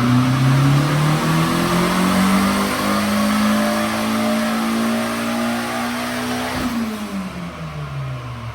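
Car engine under a long pull, its pitch climbing steadily for about six and a half seconds, then dropping off sharply and winding down.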